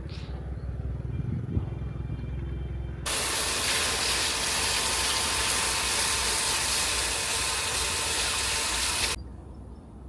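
A loud, steady hiss starts abruptly about three seconds in and cuts off sharply about nine seconds in. Before it there is a low, steady rumble.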